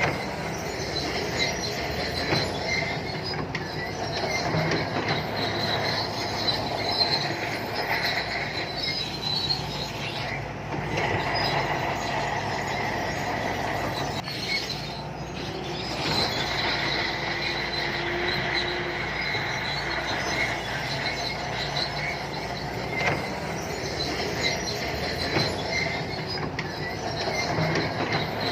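Santui crawler bulldozer at work: its diesel engine running while its steel tracks squeal and clank continuously, with a high steady squeal on top.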